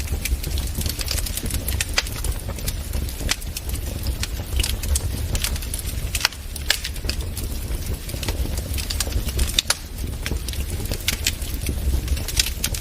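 Wood fire in a fireplace crackling, with sharp pops at irregular moments over a steady low rumble.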